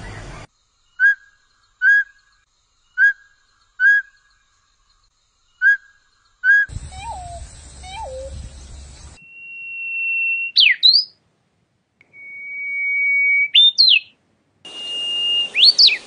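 A series of different birds calling one after another: six short chirps about a second apart, then two lower down-slurred notes, then long steady whistles that each end in a quick up-and-down swoop.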